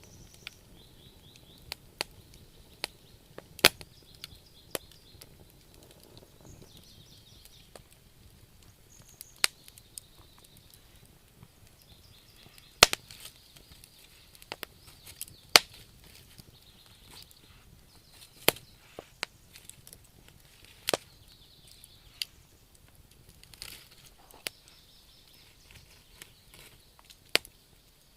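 Campfire crackling: wood burning with sharp, irregular pops, a few much louder than the rest, over faint high chirping.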